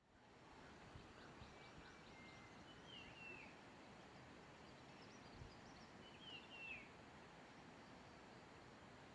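Faint outdoor ambience with a steady hiss. Wild birds give a few soft chirps, with two clearer short calls, each a quick falling pair of notes, about three and six and a half seconds in.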